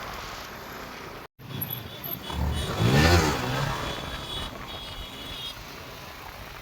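Motorcycle engine revving: the pitch climbs and falls back, loudest about three seconds in, over steady road noise.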